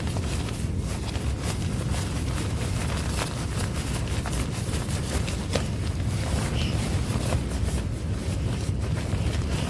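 Wind gusting on the microphone, a steady low rumble, with rain falling and many scattered sharp ticks of raindrops.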